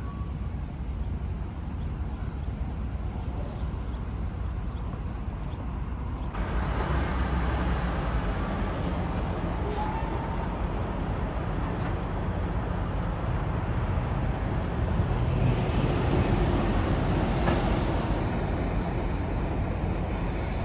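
Highway traffic with heavy trucks driving past: a steady rumble of engines and tyres that grows louder about six seconds in and swells again later as a truck goes by.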